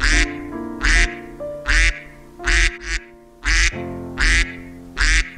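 Duck quacking repeatedly, about eight loud quacks at an even pace of roughly one every three-quarters of a second, with a quick double quack near the middle.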